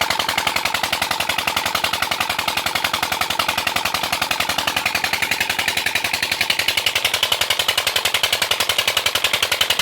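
Old diesel engine driving a tubewell pump, running steadily with a fast, even exhaust beat of about ten pulses a second.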